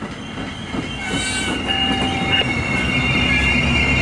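MARC commuter train's bilevel passenger cars rolling past, the wheels giving a steady high-pitched squeal over the rumble of the running gear. The squeal comes in about a second in and the sound grows louder.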